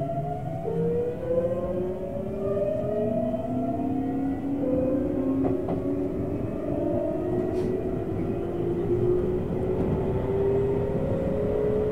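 Tokyu 7700-series electric train heard from the front car as it picks up speed: the inverter-driven traction motors give a whine made of several tones that climb slowly in steps, over steady running rumble and wind noise.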